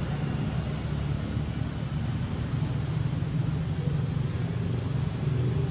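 Steady low rumble of a motor vehicle's engine running, with faint short high chirps every second or so.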